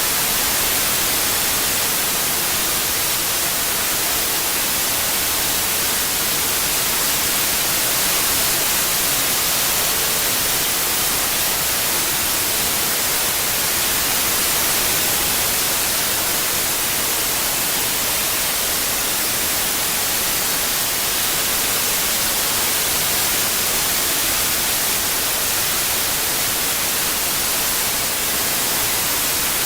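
Steady white noise, an even hiss strongest in the highs, with no changes or events, played as a tinnitus masking sound.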